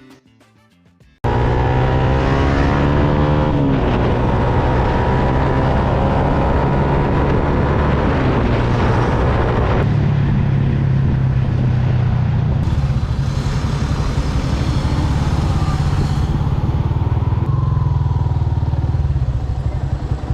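Motorcycle engine running while riding, with rushing air noise. About a second in it cuts in loudly, and its pitch climbs as it accelerates, dips at a gear change near four seconds, then climbs again and settles to a steady cruise.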